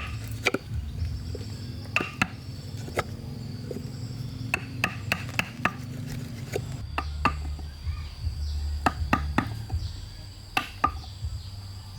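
Sharp strikes of a hand tool on wood, irregular and sometimes in quick runs of three or four, over a steady high buzz of insects.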